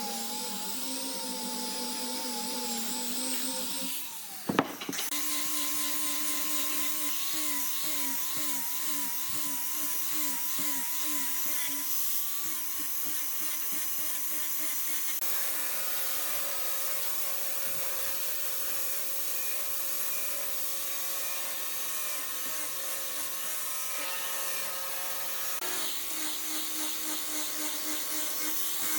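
Electric power tool running on wood, its motor whine wavering in pitch as it takes load, with a sharp knock about four seconds in.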